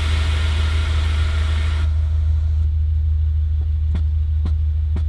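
Air-ride suspension valves hissing as the air suspension adjusts to ride height; the hiss cuts off about two seconds in. Underneath is the steady low hum of the car idling, with faint clicks about twice a second near the end.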